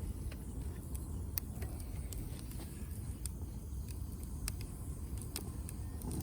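Wood fire crackling in a Uniflame firewood grill: scattered sharp pops and snaps over a steady low rumble.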